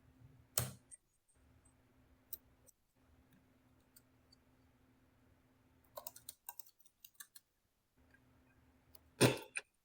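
A handful of short, sharp clicks and taps, scattered and irregular, with a cluster about six seconds in and the loudest near the end, over a faint steady hum.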